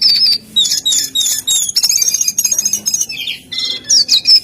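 A jongkangan songbird singing loudly and without pause: a fast, varied stream of high chirps, slurred whistles and rapid trills.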